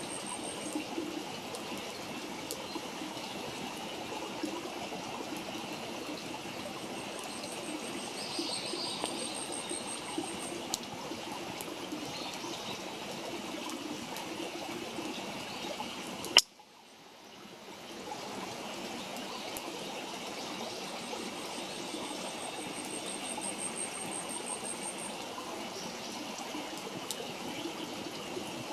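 Wood campfire crackling, with scattered sharp pops over a steady rushing hiss. A high, fast-pulsed trill sounds three times. About sixteen seconds in, a loud snap is followed by the sound dropping away and fading back in over a second or so.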